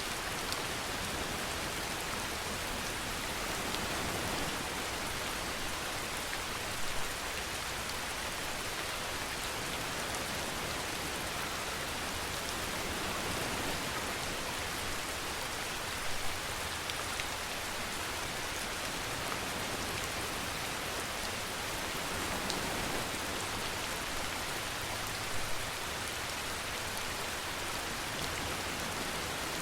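Steady rain falling, an even hiss of drops on a surface, with a few louder drop hits now and then.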